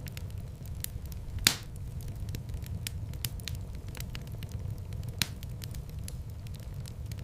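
Wood fire burning in a fireplace: a steady low rumble of flames under constant small crackles, with a loud pop about one and a half seconds in and another sharp pop near the end.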